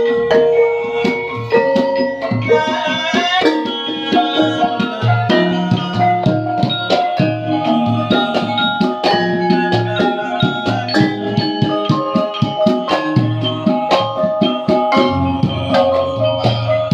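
A band rehearsing an instrumental passage: a hand drum beats a busy rhythm under ringing struck-metal notes and held pitched tones.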